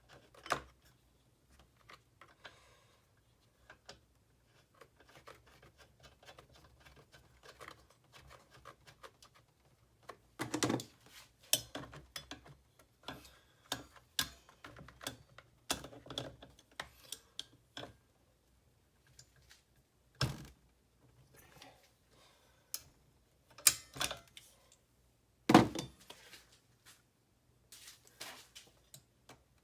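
Irregular clicks, taps and knocks of small parts and tools being handled during work on a leaf blower, with several louder knocks in the second half.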